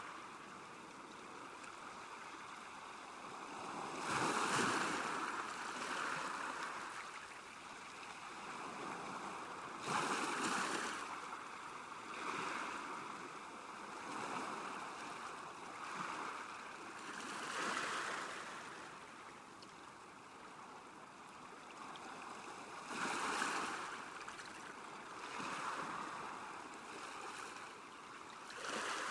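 Small waves lapping at a lakeshore, washing in every few seconds, some arriving with a sudden splash, over a steady hiss of water.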